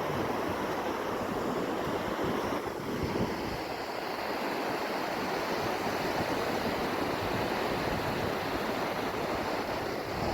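Ocean surf washing steadily on a beach.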